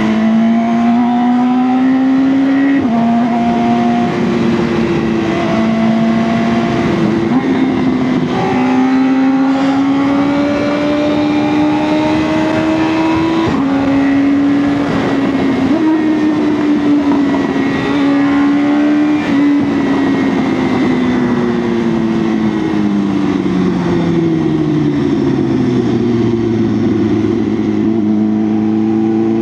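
BMW S1000R's inline-four engine running under way, its pitch climbing gently with several sudden small steps as gears change, then falling steadily over about five seconds near the end as the bike slows and settling on a low even note. Wind rush runs under it.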